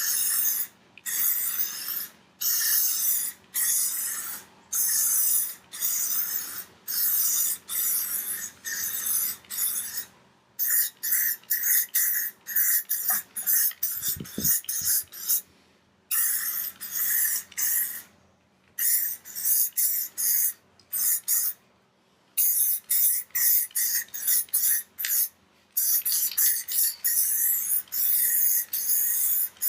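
Pine being hand-sanded with sandpaper: rapid rasping back-and-forth strokes in runs, broken by short pauses.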